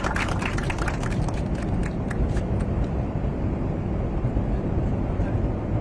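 Steady jet cabin noise of the presidential aircraft in flight, a constant low rumble and hiss. Rapid camera shutter clicks fill the first two seconds or so and then die away.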